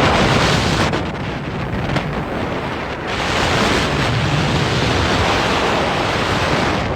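Wind blasting a phone's microphone on a moving boat: a loud, steady rush of noise that eases briefly about three seconds in.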